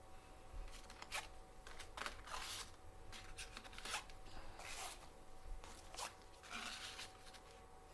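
Faint rustling and clicking of letter cards being handled and moved around, in several short bursts.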